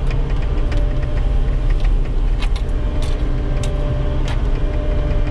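Cat skid steer's diesel engine running steadily while the machine drives, with a steady high hum and a few short clicks and rattles.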